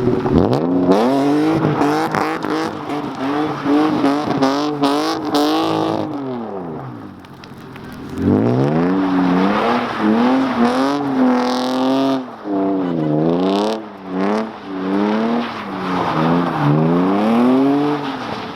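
Car engine revving hard, its pitch climbing again and again as it accelerates. It falls away about six seconds in, then winds up again and swings up and down several times near the end.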